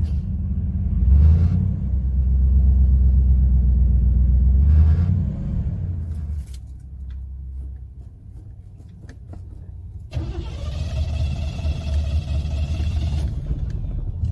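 Old car's engine running with the throttle pumped, then dying away about five seconds in. About ten seconds in, the starter cranks it again, with a steady whine over the low rumble.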